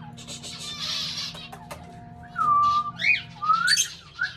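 An agitated cockatiel calling: a breathy noise in the first second, then several loud whistled calls from about halfway in, each with a sharp upward sweep.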